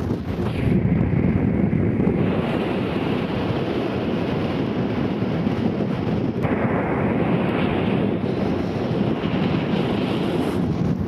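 Strong wind buffeting the camera microphone: a steady, loud rushing noise with no distinct events.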